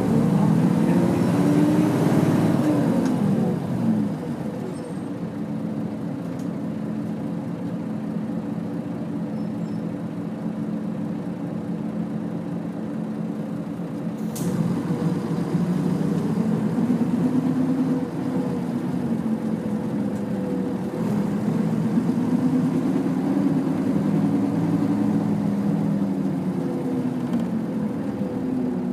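Nissan Diesel UA (KL-UA452KAN) city bus running, heard from inside: the diesel engine rises in pitch and grows louder as the bus accelerates, then drops back, three times, with a sharp click about 14 seconds in.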